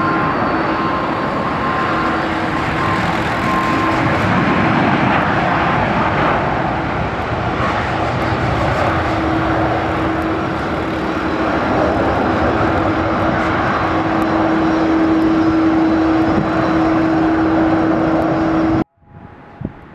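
Airliner engines running loud: a steady rush of noise with a humming tone through it, cut off abruptly near the end.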